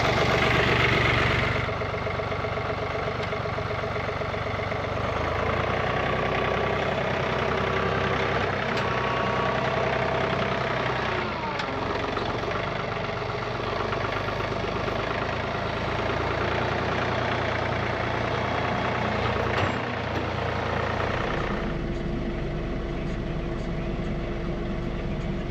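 John Deere 3046R compact tractor's three-cylinder diesel engine running steadily. Its note changes about 21 seconds in, becoming deeper with a stronger low hum.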